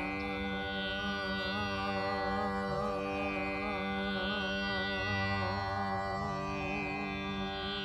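Tanpura drone: its strings are plucked in a slow repeating cycle, and the overlapping notes ring into one continuous drone. A shimmering swell returns roughly every three seconds.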